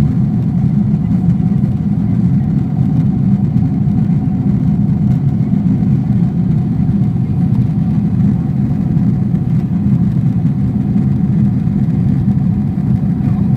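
Steady low drone inside the cabin of a Boeing 777-300ER airliner: the noise of its GE90 engines and the airflow, even throughout, with a faint higher hum over it.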